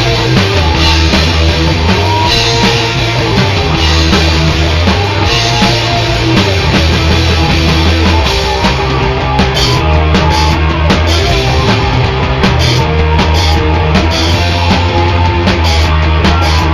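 Loud rock music with drums, bass and distorted guitar, in a punk or heavy metal style.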